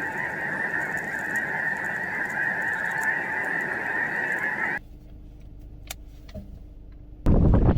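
A large flock of geese honking together in a dense, continuous clamour that cuts off abruptly about five seconds in. A quieter stretch with a faint steady hum and a few clicks follows, then wind buffeting the microphone near the end.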